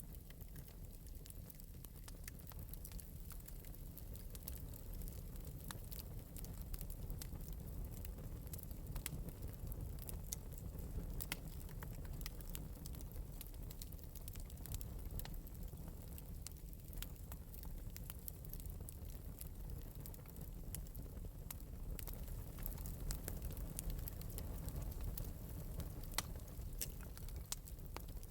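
Wood fire burning in an open metal fireplace, with a steady low rumble of the flames and frequent small sharp crackles and pops.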